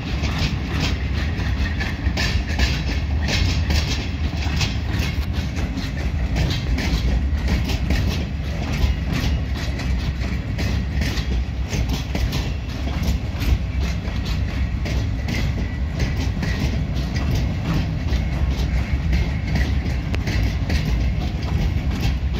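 Freight wagons loaded with concrete sleepers rolling past: a steady low rumble with repeated clacks of the wheels over rail joints.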